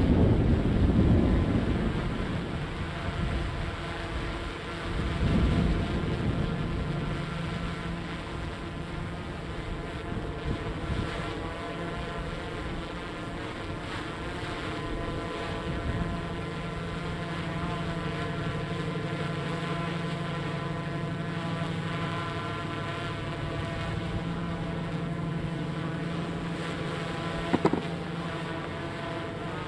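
Tugboat's diesel engines running steadily while it pushes a barge: an even hum made of several steady tones. Wind buffets the microphone in the first couple of seconds, and there is a brief click near the end.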